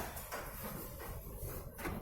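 Light clicks and rustling of microwave oven parts being handled during reassembly, with a faint knock at the start and another near the end.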